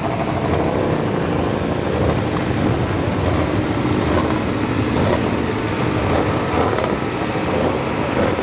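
Vehicle engines running in a steady, noisy low rumble.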